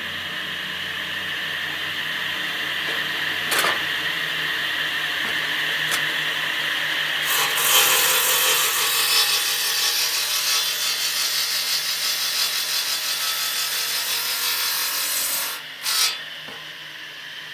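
A restored 3-in-1 woodworking machine running steadily. About seven seconds in, its blade or cutter starts cutting into wood with a loud, rasping hiss. The cut lasts about eight seconds and ends abruptly, followed by one brief burst of cutting.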